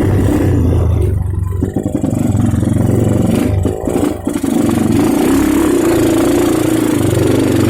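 Motorcycle engine running steadily under way, easing off briefly twice.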